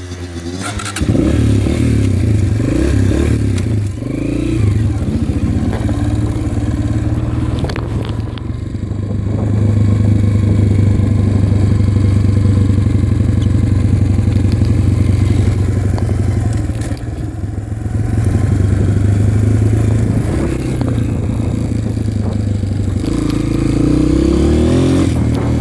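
Dirt bike engine running under way, the throttle opening and easing off, with the engine pitch rising near the end.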